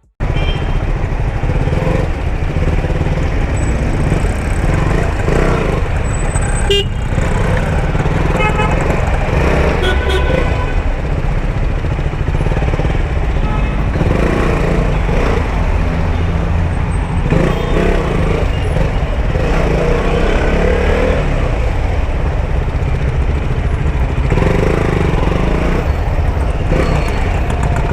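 Motorcycle riding through road traffic: a steady engine and road rumble with heavy wind buffeting on the rider's microphone.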